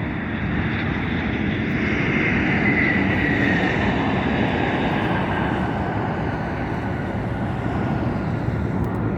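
Jet airliner engines running at climb power in a steady, loud rumble, with a whine that slowly falls in pitch a couple of seconds in.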